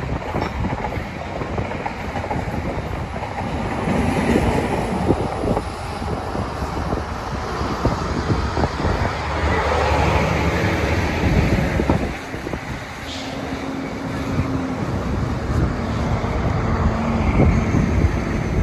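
Commuter train passing, a steady rumble with its wheels clicking over the rail joints.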